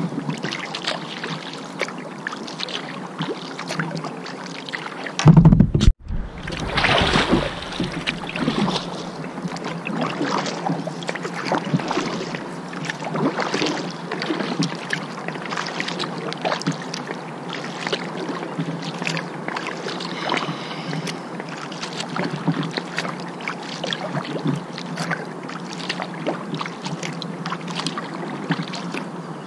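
Kayak paddling on a river: paddle blades splashing and dripping water in a steady stream of small splashes. About five seconds in comes a loud knock, followed by a couple of seconds of louder rushing splashing.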